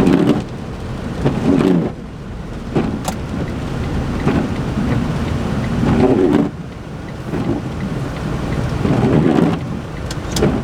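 Inside the cabin of a 2008 Smart ForTwo under way: its one-litre three-cylinder engine and road rumble, swelling louder and easing off several times as the car drives.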